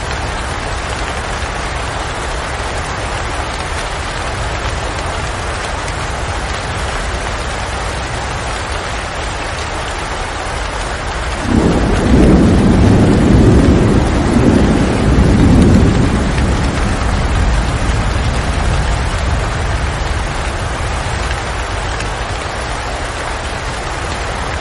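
Steady rain. About halfway through, a roll of thunder breaks in suddenly as a loud low rumble, holds for a few seconds, then fades back under the rain.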